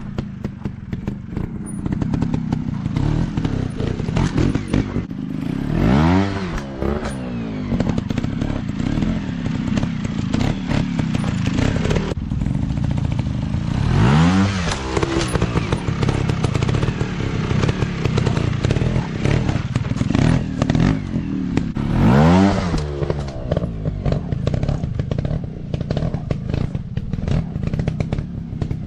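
Dirt bike engines running, the revs climbing and dropping three times, with clattering knocks throughout.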